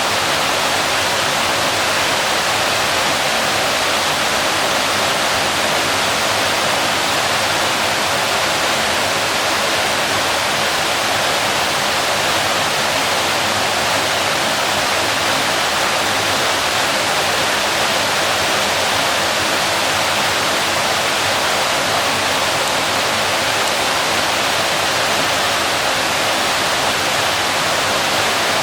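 A waterfall pouring, a steady, unbroken rush of falling water.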